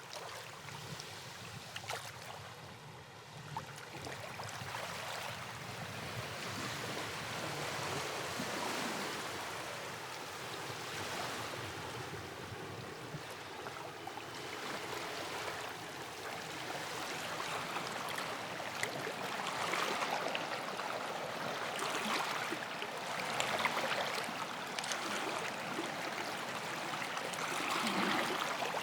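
Ambience of moving water: a continuous rush that swells and eases every few seconds, with a couple of small clicks in the first few seconds.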